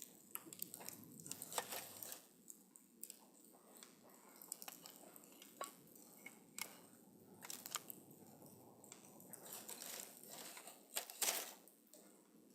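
Wood campfire burning, with irregular crackles and small pops over a soft hiss of flame; a brief louder flurry of pops comes near the end.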